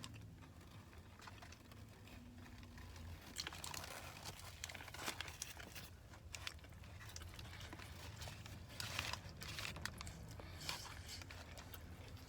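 Close eating sounds: a person chewing a spicy fried chicken sandwich, with scattered soft crunches and crinkles.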